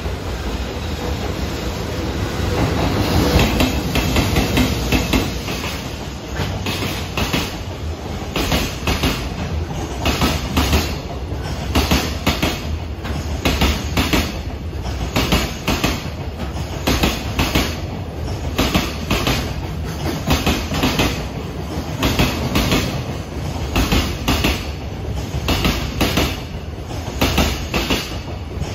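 JR Freight EH500 electric locomotive passing close by, loudest a few seconds in, followed by a long container freight train of Koki flat wagons rolling past. The wheels clack over the rail joints in steady repeating clusters over a low rumble.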